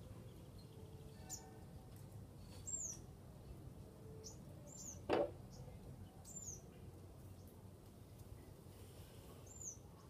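Small birds chirping off-camera: short, high-pitched chirps, each dipping at the end, heard several times. About five seconds in comes one louder brief sound, the loudest moment, over a faint low background rumble.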